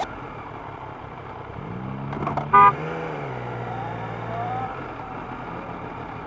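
Yamaha MT-09 three-cylinder motorcycle engine running in traffic, its pitch rising and falling a couple of seconds in, then holding steady before dropping away a little under five seconds in. A short, sharp horn toot sounds about two and a half seconds in.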